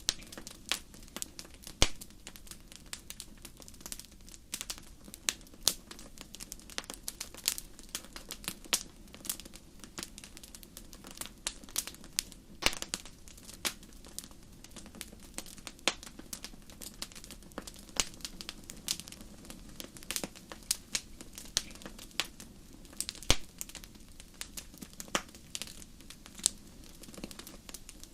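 Wood fire burning in a fireplace, crackling steadily with frequent irregular sharp pops and snaps over a low, even rumble of flames.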